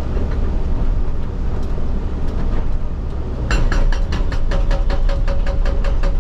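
Excavator diesel engine running, then a little past halfway a hydraulic rock breaker starts hammering, a fast even train of strikes at about six or seven blows a second, heard from the operator's cab.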